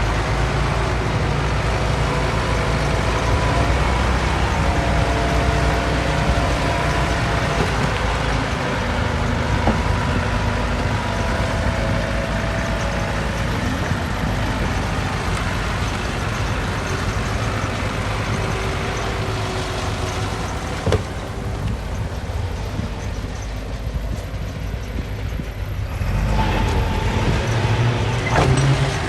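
Heavy diesel earthmoving machinery running steadily under load, with higher whining tones that come and go and a couple of single knocks. The engine eases off briefly and picks up again about three-quarters of the way through.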